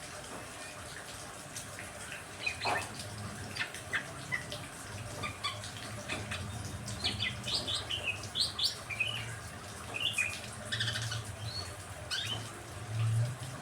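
Small songbirds chirping and calling in quick, scattered notes over a steady hiss of rain, with a low hum underneath that grows louder near the end.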